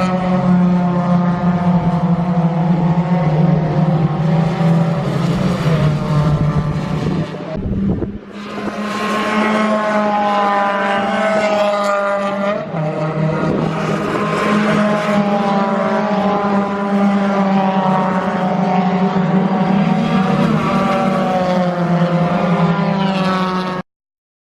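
Racing car engines at high revs, their pitch climbing and falling as they run through the gears, over a steady low drone. The sound breaks off briefly about eight seconds in, and stops abruptly near the end.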